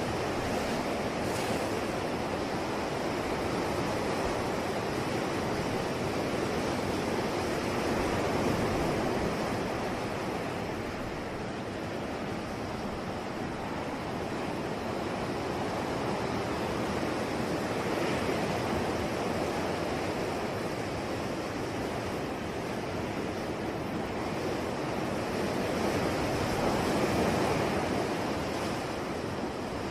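Sea waves breaking and washing onto a shore, a steady surf that swells and eases slowly, with louder swells about 8 seconds in and near the end.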